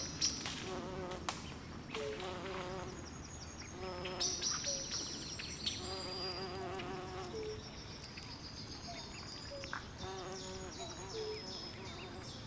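Night swamp ambience: frogs calling in repeated short warbling trills every second or two, with high chirping over a steady low hiss.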